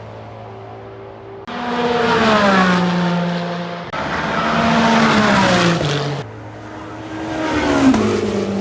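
Le Mans Hypercar prototype engines passing at speed three times in quick succession, each engine note dropping in pitch as the car goes by. The first two passes come in abruptly, and the third builds to a peak near the end.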